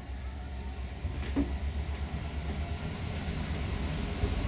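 Passenger train running along the track: a steady low rumble of wheels on rail that grows gradually louder, with a sharp click about a second and a half in and a fainter one later.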